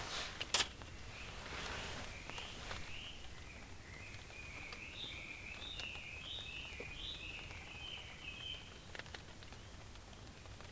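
A small bird singing a rambling, chattering run of high notes for about six seconds. Before it starts there are a couple of sharp clicks and rustles of handling.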